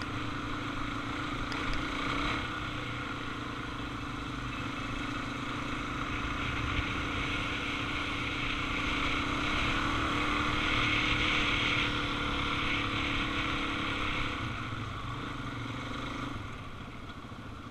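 Suzuki DR-Z400 single-cylinder motorcycle engine running steadily while riding. It grows louder in the middle and eases off near the end.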